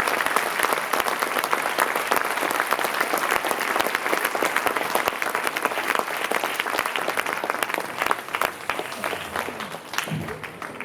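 Audience applauding, dense clapping that thins out and fades over the last few seconds.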